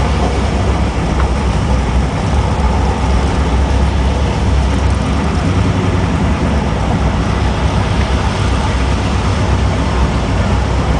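1968 Corvette's V8 engine running steadily, a low rumble with an even hiss of road and wind noise over it.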